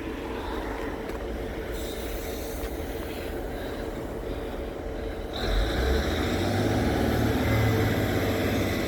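Diesel passenger train's engine running with a steady rumble; about five seconds in a louder low drone sets in as the engine works harder.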